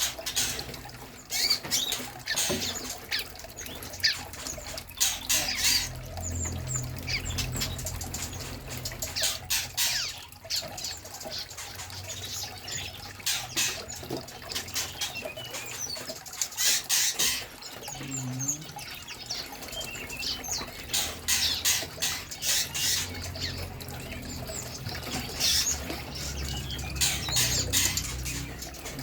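Small songbirds, bar-winged prinias (ciblek) and flycatchers, fluttering their wings in repeated bursts with scattered high chirps as they are released into an aviary.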